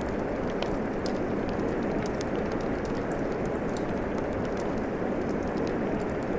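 Steady rain mixed with a crackling wood fire: an even rushing hiss with many small, sharp pops and ticks scattered over it.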